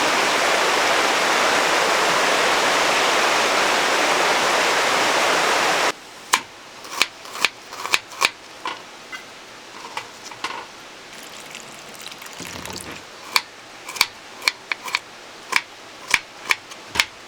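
Steady rushing of a valley stream. About six seconds in it cuts off abruptly, and a series of sharp, irregular clicks and taps follows over a quiet background, some with a short ring.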